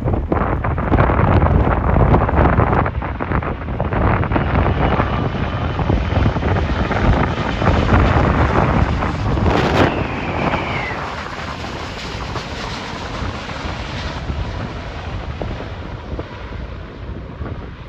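Strong wind buffeting the microphone, mixed with the jet engines of an airliner on landing approach passing overhead. A thin engine whine drops in pitch about ten seconds in, and the noise eases after that.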